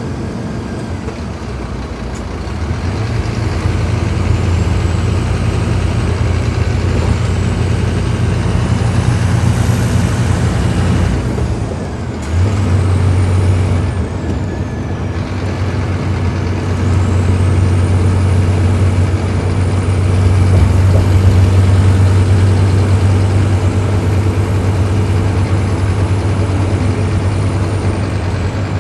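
Scania K310IB bus diesel engine pulling under load. Its low drone builds, dips briefly about twelve seconds in as if for a gear change, then climbs again. A thin high whistle rises and falls along with it.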